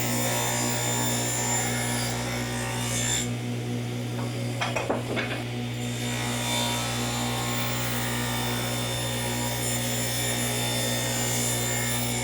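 Power saw running steadily while cedar boards are cut down to size, with a louder, scratchy stretch about five seconds in.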